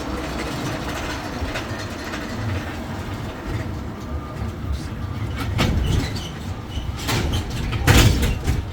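Tourist road train on the move, heard from aboard: a steady low rumble, with several loud knocks and rattles in the second half.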